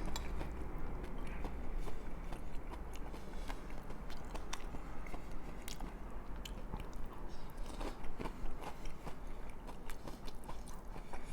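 Close-up chewing of a mouthful of picadillo stew with lime Fritos corn chips, with irregular crisp crunches throughout.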